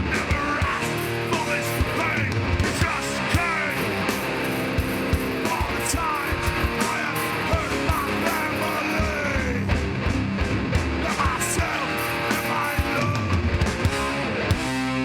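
Live hardcore band playing: distorted electric guitars over drums with frequent hits and cymbals, ending on a held, ringing chord.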